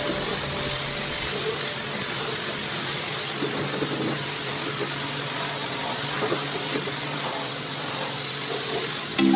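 Pressure washer running, its water jet spraying as a steady hiss over the hum of the motor.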